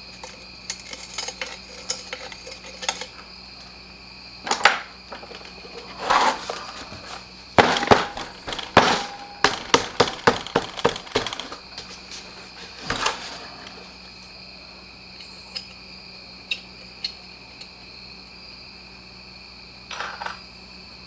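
Tools and small metal parts clinking and clattering as the blower is handled and taken apart, a cluster of sharp knocks in the middle. A steady high cricket chirr runs underneath.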